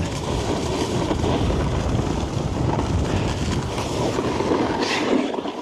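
Wind rushing over a body-worn microphone as a snowboard slides over snow, with a brief hiss near the end.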